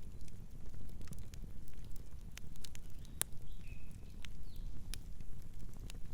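Wood campfire crackling: irregular sharp pops and snaps over a steady low rumble, with a faint high chirp or two near the middle.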